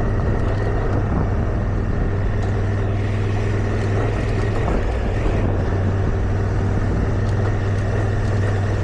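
Motorcycle engine running steadily at an even speed while riding, under wind and road noise.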